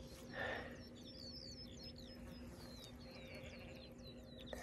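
A small bird singing faintly, a quick run of short, high, falling chirps repeated over and over, above a low steady hum.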